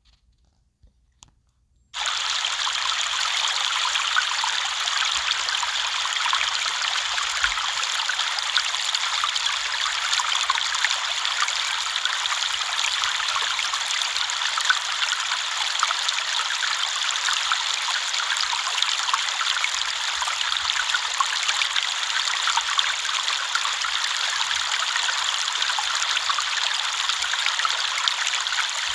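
River water flowing and trickling, a steady rushing hiss with fine splashes, starting abruptly about two seconds in.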